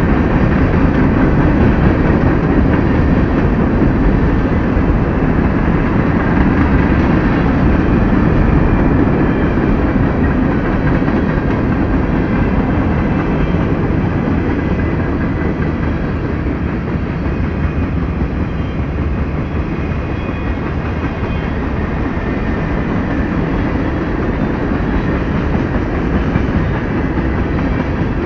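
Freight train's boxcars rolling past: a loud, steady rumble of steel wheels on the rails that eases off slightly partway through.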